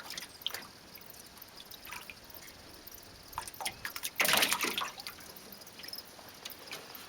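Water dripping and trickling, with scattered small ticks and knocks, and one louder burst of noise about four seconds in.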